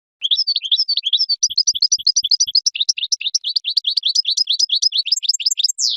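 Goldfinch singing: a fast, unbroken run of high twittering notes that starts and stops abruptly and ends in a quick downward slur.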